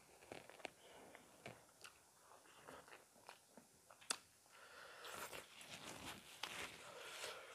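Faint mouth sounds of people eating chicken curry and rice by hand: chewing and biting with small wet clicks, and one sharper click about four seconds in.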